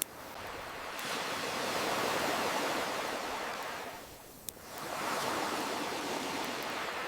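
Ocean waves washing in and drawing back, swelling twice with a lull about four seconds in. A few sharp crackles of a wood campfire pop over them, one right at the start, one about a second in and one in the lull.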